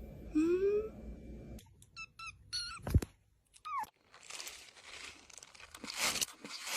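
A short rising animal call, then a run of quick high chirps and one falling chirp, with a sharp click in between, followed by soft crinkling and rustling.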